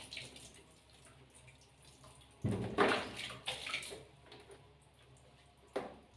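Water splashing and pouring in short bursts while a small pet is washed: one burst lasting about a second and a half, starting about two and a half seconds in, and a brief splash near the end.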